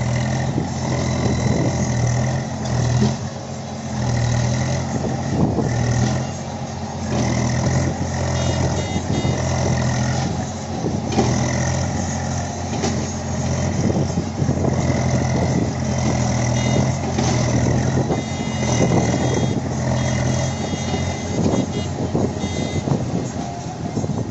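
Heavy diesel machinery, a JCB backhoe loader and tractor, running hard under load, with a steady tone that comes and goes every second or two.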